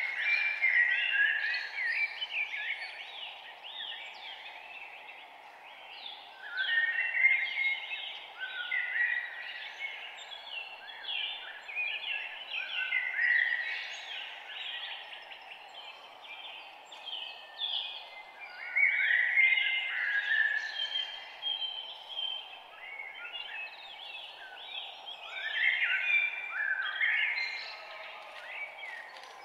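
Several songbirds singing and chirping in a dawn chorus, in rising and falling bursts of quick warbled phrases, over a steady low background hum.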